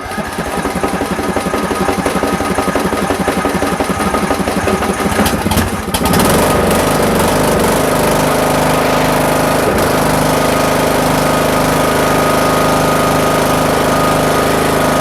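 Riding lawn mower's small gasoline engine running after starting, now that the stuck carburetor fuel shut-off solenoid has been bypassed by cutting off its plunger. It runs rough and pulsing at first, then about six seconds in it settles into a steadier, smoother run.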